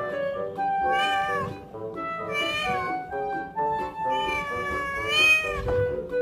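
A cat meowing three times in drawn-out calls that bend in pitch, the last one the longest. Background music with steady held notes plays underneath.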